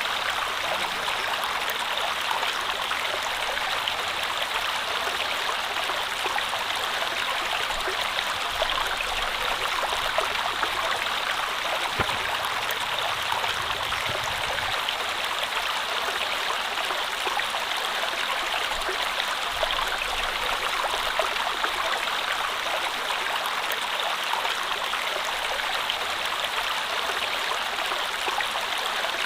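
Stream flowing steadily, a constant even rush of water with no break or change.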